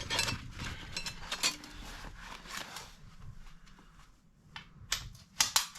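Chimney-sweeping gear being handled: irregular rustling and light clinking, with a few sharp clicks near the end.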